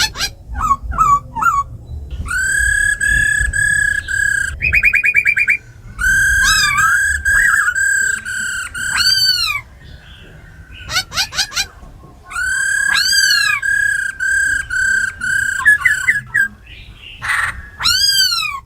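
A laughingthrush singing loud, clear whistled phrases. Each phrase is a long held note broken by arching rise-and-fall whistles, and there is a rapid trill about five seconds in. A short harsh call comes near the end.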